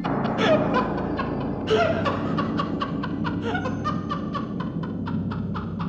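Laughter in rapid, repeated short bursts, over background music.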